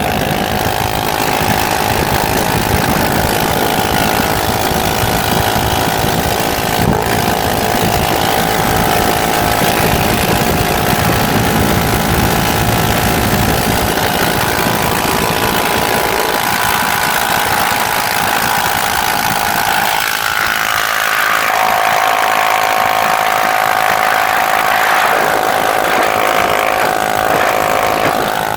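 Motorcycle engine running steadily under a constant rushing noise. Its pitch shifts about two-thirds of the way through and again near the end.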